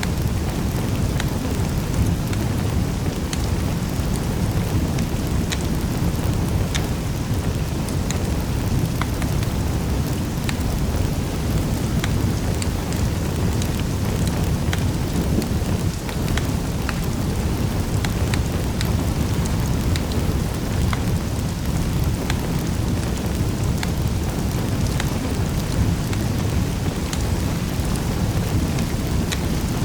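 Wood fire burning in a fireplace: a steady low rumble from the flames, with irregular sharp crackles and pops scattered through it.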